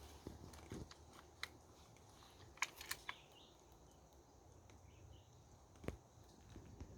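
Near silence, with a few faint, isolated clicks scattered through it.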